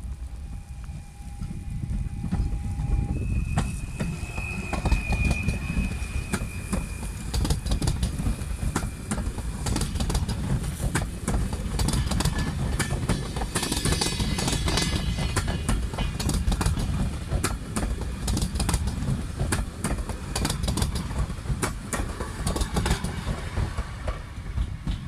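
PKP Intercity Stadler FLIRT electric multiple unit passing close by: a steady deep rumble with many sharp wheel clicks over rail joints and points. A thin high squeal sounds for a few seconds near the start.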